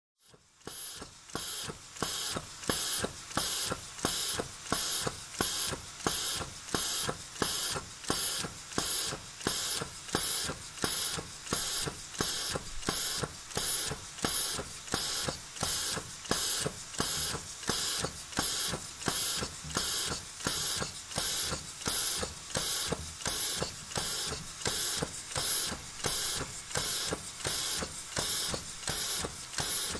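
Steam locomotive's air pump (the steam-driven brake air compressor) working at an even pace of about three strokes every two seconds, each stroke a hissing puff. It picks up in the first second or two, then keeps a steady beat.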